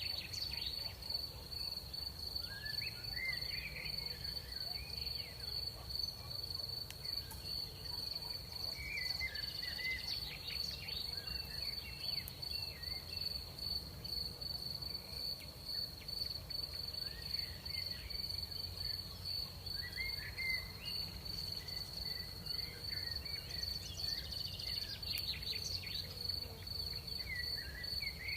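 Crickets trilling in one continuous high, steady tone, with groups of short chirping calls coming and going over it a few times. A faint low rumble of night air lies beneath.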